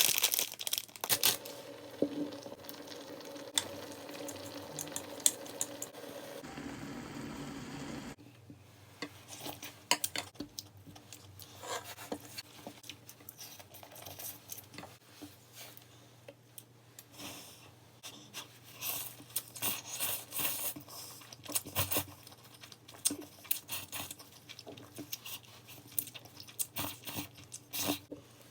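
Food packaging crinkling and tearing up close, with many sharp crackles and crunches; the busiest, loudest stretch comes in the first eight seconds.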